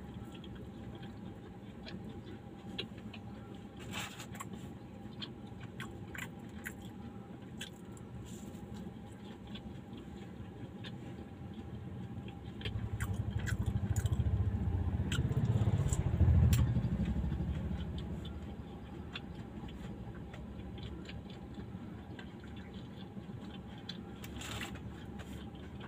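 Quiet eating sounds: faint chewing and small clicks from biting into and handling a fried bajji. Midway, a low rumble swells and fades over about five seconds, a vehicle passing outside the car.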